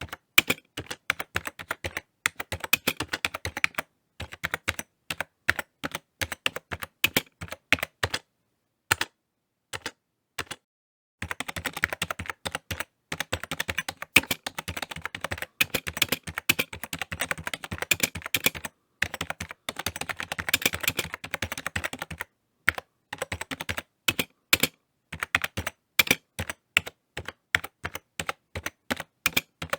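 Typing on a computer keyboard: quick runs of key clicks, with a couple of short pauses about eight and ten seconds in, then a long fast burst.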